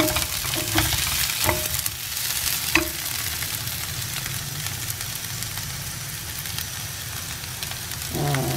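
Baby potatoes and onion sizzling in oil in a non-stick pan as they brown, with a steady frying hiss. A wooden spatula stirs and knocks against the pan several times in the first three seconds, then the sizzle carries on alone.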